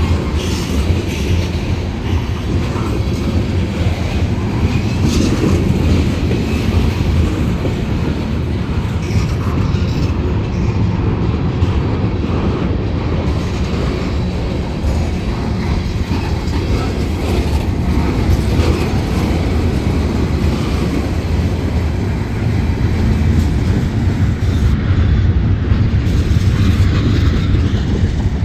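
Mixed freight train's cars rolling past, a steady, loud noise of steel wheels on rail with no break.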